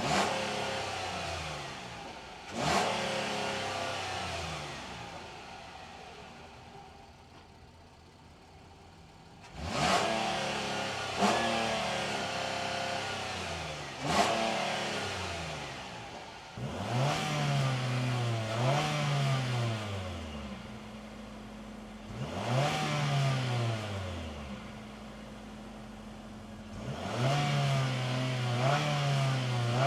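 Infiniti car engine heard through its exhaust. In the first half there are several sudden loud bursts, each dying away; after the middle it is idling steadily and being revved again and again, the pitch rising and falling every couple of seconds.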